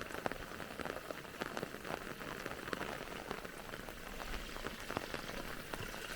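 Light rain falling, with many small separate drop ticks over a steady patter, along with a small trickle of water flowing in a farm canal.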